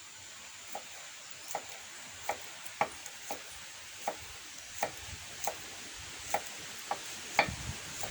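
A series of light knocks, about one every three-quarters of a second, over a steady background hiss.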